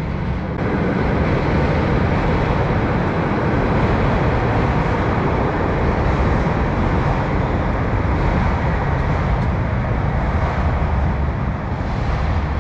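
A train running past the platform: a steady rumble that swells up about half a second in and holds.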